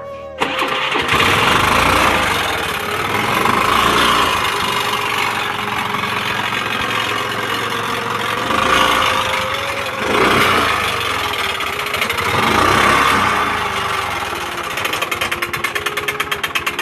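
Honda Activa 125 scooter engine started and revved several times, with a metallic rattling knock from inside the engine that the owner likens to hail on a tin roof; he takes it for a fault inside the engine. Near the end it settles into a rapid, even ticking.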